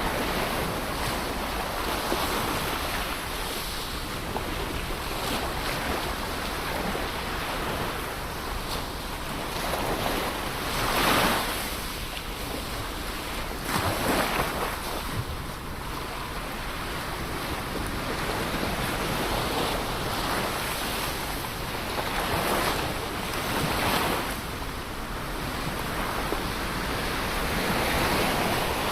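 Ocean surf: waves washing and breaking in a continuous rush that swells and eases every few seconds, with the loudest break about eleven seconds in.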